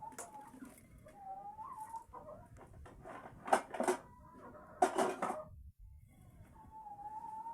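Birds calling, with drawn-out, slightly rising calls and two loud, harsh bursts about halfway through.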